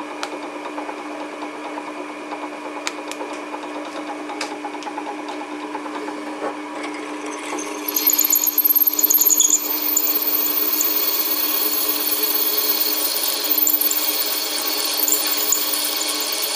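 An electric drill motor runs with a steady hum. About eight seconds in, a freshly jig-sharpened twist drill starts cutting a hole, adding a louder hissing, scraping cutting noise.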